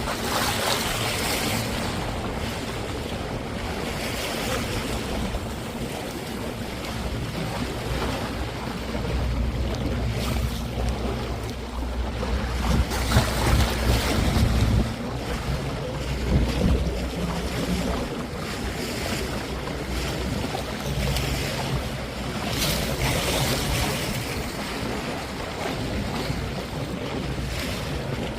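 Sea water washing and splashing past a boat, with wind gusting on the microphone and a low steady engine hum underneath; the splashy hiss swells up every few seconds.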